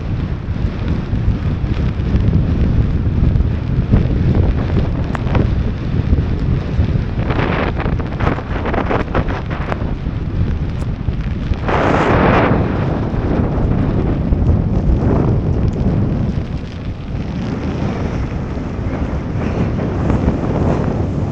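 Strong wind buffeting the microphone, a continuous low rumble with gusts; about twelve seconds in a louder rush of noise stands out.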